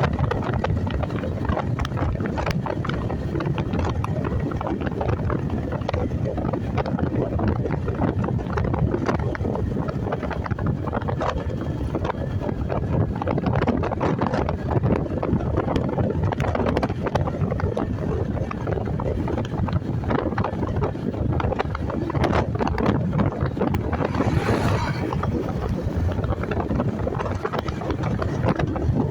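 Steady wind rush buffeting the microphone, with road and engine noise from a moving motorcycle. A brief louder, hissier rush comes near the end.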